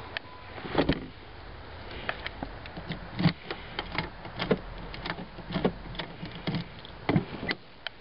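Irregular clicks and knocks from a car door and its locks being worked, over the low hum of a 1993 Chrysler Fifth Avenue's engine idling, as the theft alarm set off by reconnecting the battery is being cleared.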